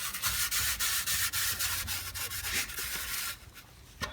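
Scrubbing the grimy steel of an old Craftsman toolbox by hand: a rough, steady rubbing made of quick strokes that stops about three and a half seconds in.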